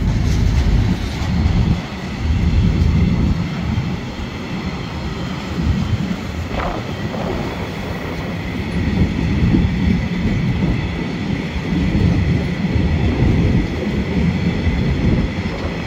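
Freight train wagons (container flats, then stainless milk tank wagons) rolling past close by: a steady, loud rumble of steel wheels on the rails.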